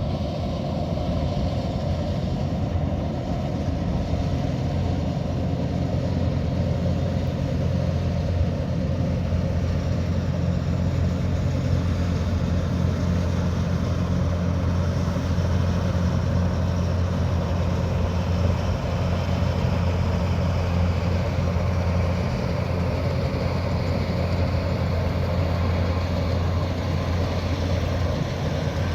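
Kubota DC108X combine harvester's diesel engine and machinery running steadily: a constant low drone.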